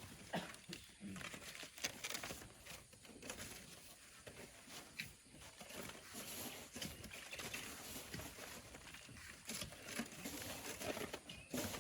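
Irregular scraping and knocking of hand tools working sand and rock, with soft pattering.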